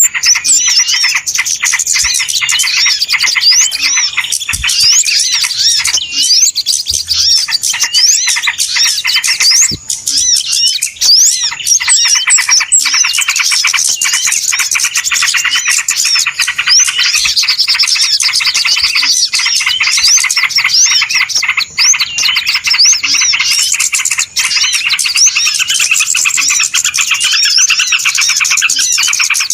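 Many small birds chirping in a loud, unbroken chorus of quick, high chirps: a noisy bird-lure (pikat) call recording used to draw in small birds.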